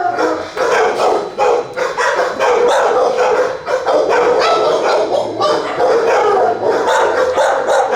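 Shelter dogs barking in their kennels: many dogs at once, loud and nearly continuous, the barks overlapping.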